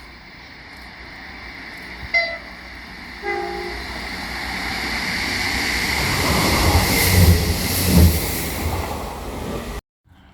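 A passing train sounds its two-tone horn: a short high note, then a short lower note a second later. The train then comes close with a rising rumble and wheel clatter over the rail joints, and the sound cuts off suddenly near the end.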